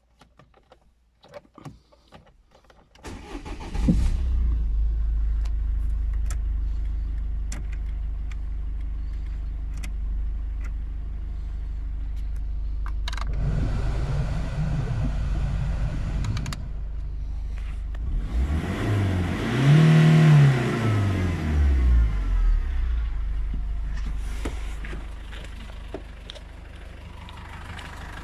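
Mitsubishi Carisma 1.9-litre F9Q turbo-diesel engine cranked and started about three seconds in, after a few light clicks, then running at idle. It is revved twice, briefly around the middle and higher a few seconds later, each time rising and falling back to idle.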